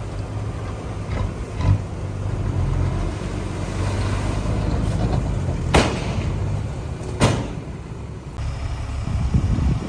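Heavy diesel machinery engine running steadily with a low rumble, with two sharp knocks about a second and a half apart past the middle.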